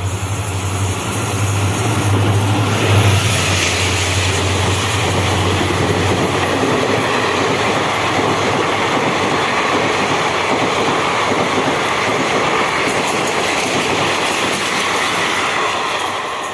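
Indian express train passing at high speed. A low locomotive hum is heard for the first few seconds, then the steady loud rush of the coaches going by, easing off at the very end.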